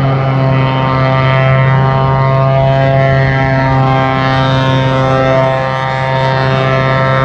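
Aircraft engines running loud and close: a steady low drone made of many evenly spaced humming tones, whose pitch drifts slightly.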